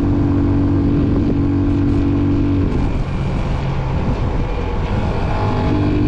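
Motorcycle engine running while riding, with a steady engine note. The note breaks off about halfway through, as if the throttle is eased, then settles back near the end.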